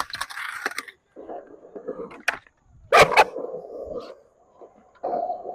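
Skateboard on Spitfire wheels rolling over concrete, with a sharp clack of the board about three seconds in followed by more rolling.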